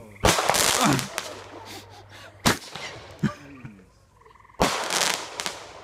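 Jumbo Roman candle firing: four sharp reports a second or two apart, the first and last each followed by under a second of hissing.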